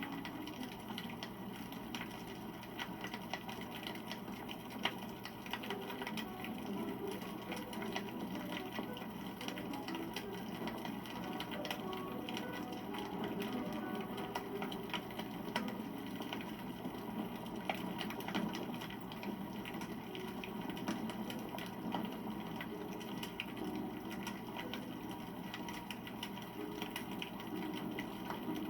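Wood campfire burning, crackling with frequent small pops and snaps over the steady rush of the flames.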